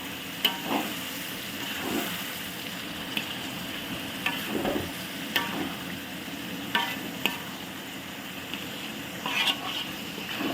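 Onion and tomato masala sizzling in hot oil while a ladle stirs it, scraping and knocking against the pan now and then.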